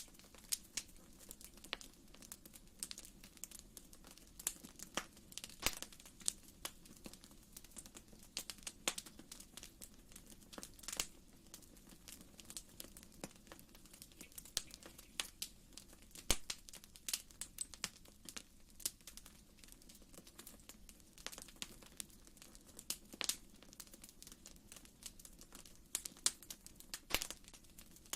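Wood fire in a fireplace crackling: irregular sharp pops and snaps, several a second, over a faint low steady rumble of the flames.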